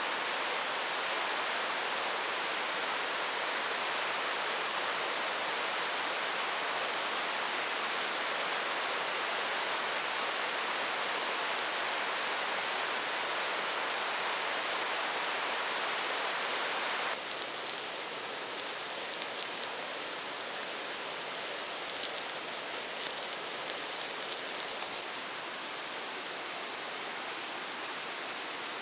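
Steady rain falling. About two-thirds of the way through the sound changes abruptly to a sharper, crackly patter of separate drops hitting a surface, which then evens out.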